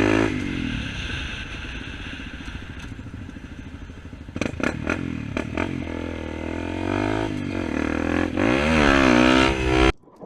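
Motorcycle engine idling and revving up and down, with the loudest rev near the end. A quick run of sharp knocks about four to five and a half seconds in, and the engine sound cuts off suddenly just before the end.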